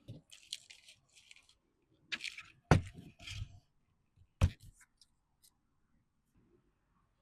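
Brief bursts of rustling as something is handled, with two sharp knocks, the first about two and three quarter seconds in and the second about a second and a half later.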